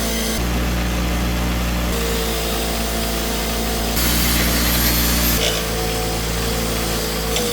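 Electric grinder running steadily, grinding down the steel pivot of a control arm so that a polyurethane bushing will fit. Its tone shifts abruptly every second or two.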